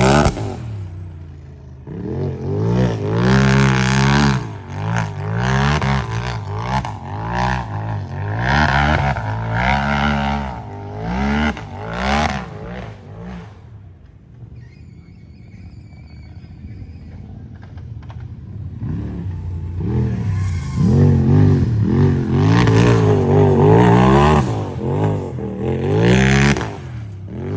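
Race UTV engine revving hard, its pitch climbing and dropping again and again as the throttle works. The engine fades to a lower level around the middle, then comes back loud for the second half.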